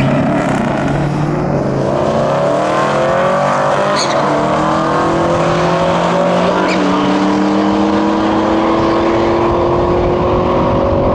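Drag-racing cars accelerating hard at full throttle away from the start line, led by a C6 Corvette's V8. The engine pitch climbs steadily and drops at upshifts about four and about seven seconds in.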